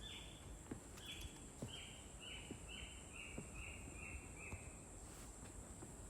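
A rainforest bird calling a run of about nine short whistled notes, each slurring down, the series stepping lower and coming a little faster, over about five seconds. A steady high hiss runs underneath.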